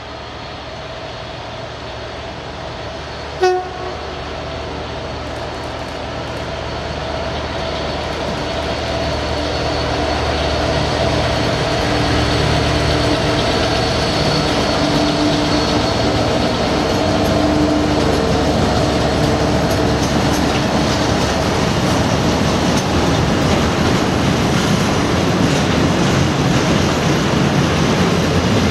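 Class 66 diesel freight locomotive growing steadily louder as it approaches and passes at speed with its EMD two-stroke engine running, followed by the steady rolling clatter of the container wagons behind it. A short horn blast sounds about three and a half seconds in.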